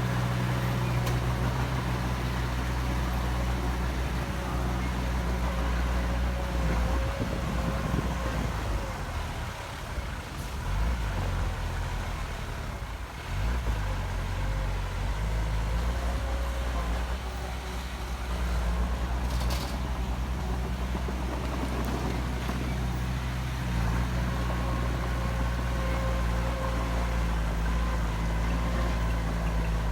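Heavy diesel engine of earthmoving machinery running steadily as a low drone, with a thin whine above it. The engine eases off briefly a few times around the middle.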